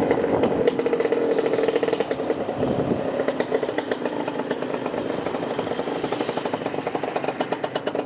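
Motorcycle engine running with a rapid, even firing beat.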